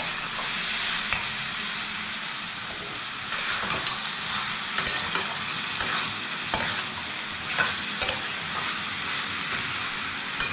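Diced potatoes, boiled banana stem and spice paste sizzling in oil in a metal kadai, stirred with a metal spatula that scrapes the pan in irregular strokes over the steady sizzle.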